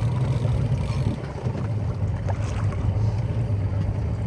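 A boat's engine running steadily, a low hum with water and wind noise over it.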